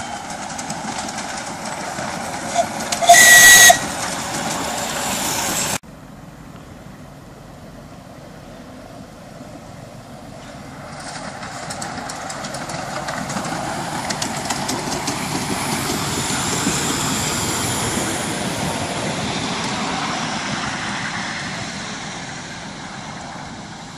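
A miniature railway train running, with a loud, short whistle blast about three seconds in. After an abrupt break, a miniature train comes past, its running sound swelling and then fading away.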